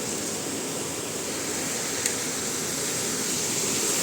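Heavy rain pouring down, a steady hiss that grows gradually louder, with one small click about two seconds in.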